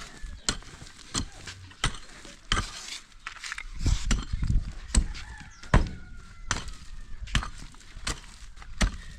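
Regular hard blows from a hand tool striking during demolition of an old house, about one every 0.7 seconds, with a stretch of denser clatter around the middle.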